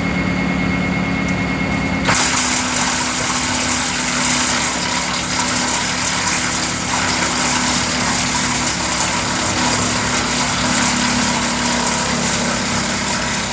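Fendt Turbomatik 105S tractor engine running a PTO-driven Linddana TP150 wood chipper, a steady mechanical drone. About two seconds in the sound changes abruptly to a brighter, noisier running that holds steady.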